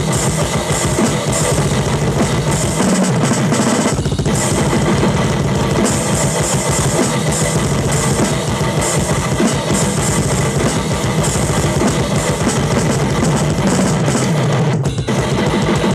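Drum kit and electric guitar playing heavy metal together, the bass drum hitting in rapid strokes under the guitar, with short breaks about four seconds in and again near the end.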